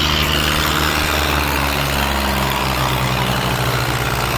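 Tractor engine running steadily, with a low hum whose pitch shifts slightly about two seconds in.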